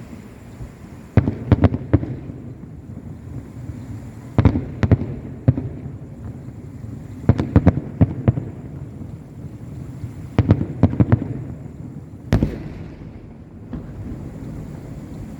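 Aerial fireworks bursting: clusters of several sharp bangs about every three seconds, then a single bang near the end.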